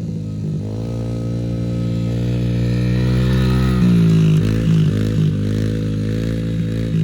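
Yamaha TT-R110 dirt bike's small four-stroke single-cylinder engine running as the bike rides by. It grows louder toward about four seconds in, then its pitch shifts and wavers a few times as the throttle changes.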